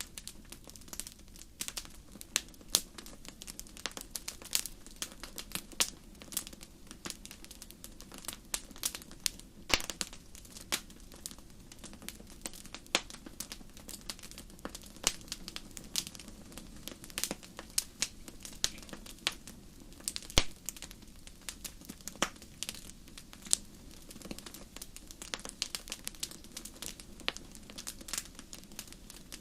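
Wood fire in a fireplace crackling: frequent irregular sharp pops and snaps over a low steady rush of the flames.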